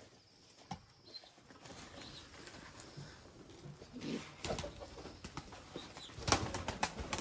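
Domestic pigeons cooing low, with several sharp knocks, the loudest about six seconds in.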